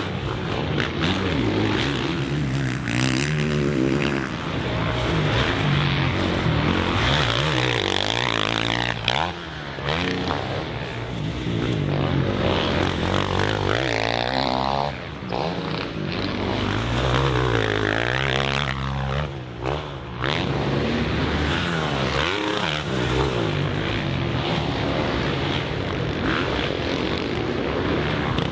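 Motocross bike engines revving up and dropping off over and over, the pitch rising and falling with each burst of throttle, with brief dips between.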